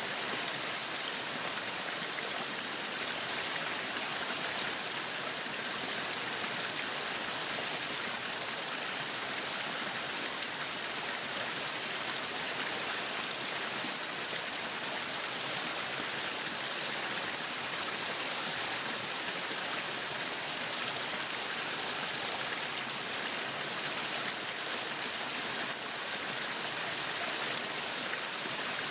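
Meat sizzling on a yakiniku grill: a steady hiss with fine crackling that never lets up.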